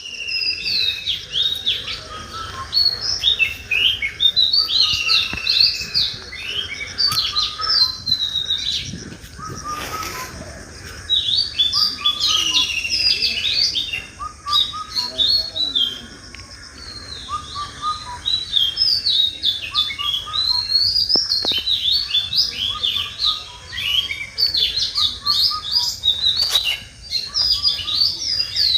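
Many small songbirds chirping and singing at once, a dense chorus of quick, high chirps and short trills that thins out briefly a couple of times.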